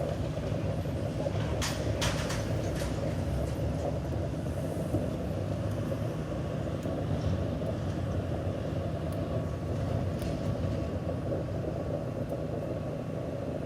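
Steady low rumble of an idling vehicle engine, with a few sharp clicks about two seconds in.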